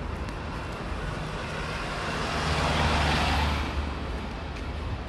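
A road vehicle passing close by: tyre and engine noise swelling to its loudest about three seconds in, then fading, over a steady low hum.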